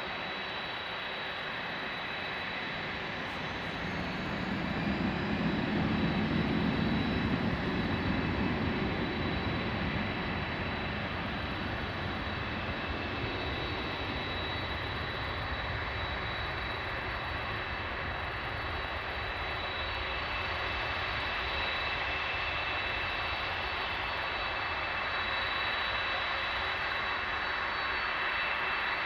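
Boeing 747-400's four jet engines running with a steady roar and a high, held whine. A deeper rumble swells up about four seconds in and eases off again after about ten.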